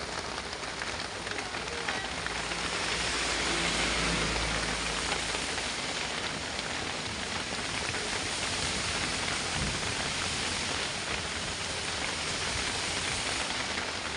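Heavy rain pelting a dump truck's cab in a steady hiss, getting louder for a few seconds about three seconds in, with the truck's engine running low underneath.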